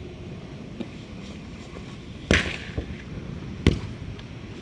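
Sharp slaps of a volleyball being struck by hand: the loudest about two and a half seconds in, another a little over a second later, with fainter hits between.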